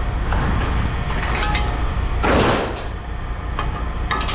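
Steady low rumble of a running engine or machine, with a brief loud hiss about two seconds in.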